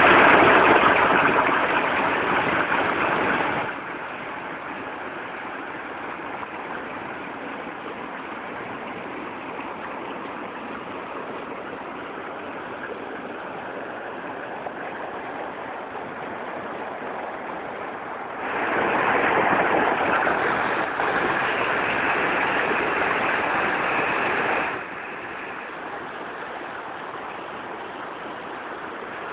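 Water rushing steadily, swelling louder for a few seconds at the start and again about two-thirds of the way through.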